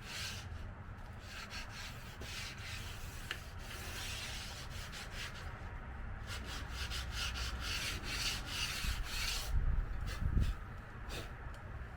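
Sandpaper rubbing over body filler on a car panel in repeated strokes, sanding down a rough spot in the bodywork. A few louder low bumps come about ten seconds in.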